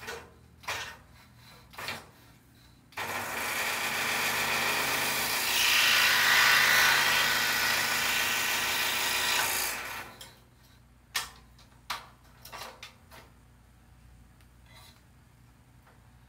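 Scroll saw running and cutting a poplar puzzle blank. It starts suddenly about three seconds in and stops about seven seconds later, with a few light clicks and knocks of handling before and after.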